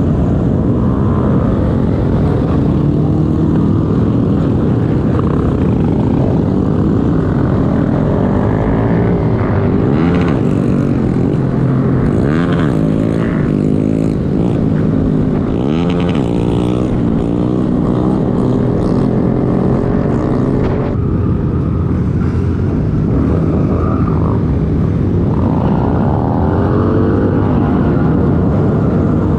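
Honda Grom's small single-cylinder four-stroke engine running under way, its pitch rising and falling again and again as it revs and shifts through the gears.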